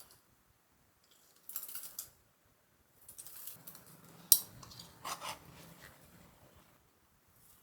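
Kitchen handling sounds: light clinks and rustles of utensils and dishes, with one sharp click about four seconds in.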